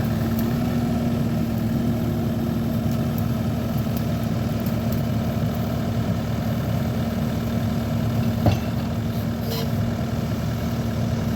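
Skid steer engine running steadily at a constant speed, with one brief knock about eight and a half seconds in.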